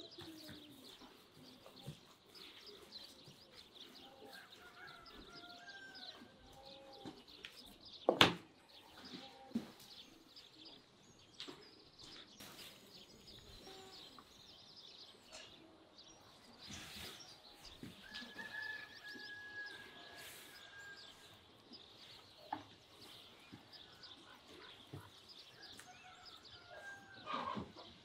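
Faint outdoor ambience of birds chirping steadily, with a single sharp knock about eight seconds in.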